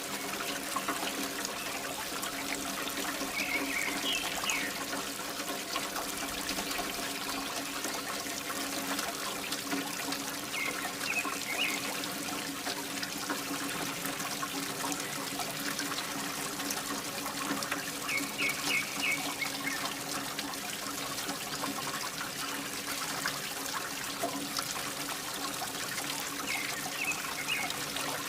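Water pouring and trickling steadily from a mini water pump's outlet, over the steady hum of the small pump motor.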